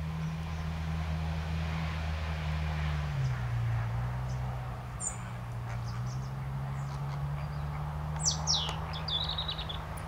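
Wild birds calling over a steady low drone. There are brief high calls about halfway through, then near the end two quick downward-sweeping notes and a rapid run of about six short high notes. The drone drops in pitch about three seconds in.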